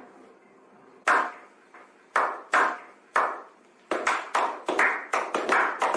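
A run of struck, ringing, bell-like notes, spaced about a second apart at first and then coming faster and faster toward the end.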